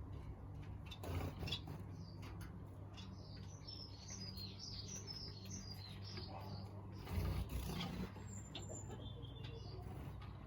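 Small aviary birds chirping, with a quick run of short, high chirps in the middle, over a steady low hum. There are two brief low thumps, one about a second in and a louder one near the end.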